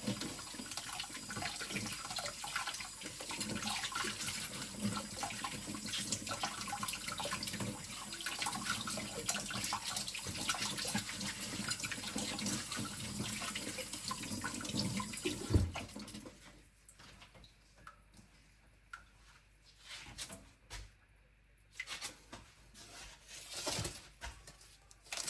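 Kitchen tap running into a sink while knives and shears are washed under it, with small clicks and clinks throughout. The water stops about sixteen seconds in with a thump, and a few scattered knocks and clicks follow.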